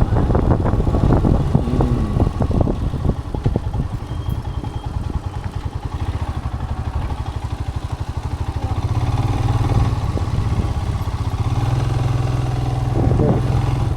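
Royal Enfield Himalayan motorcycle engine running during a ride, a steady low hum with rough, choppy rumble in the first few seconds. The engine note settles and grows a little louder about two-thirds of the way in.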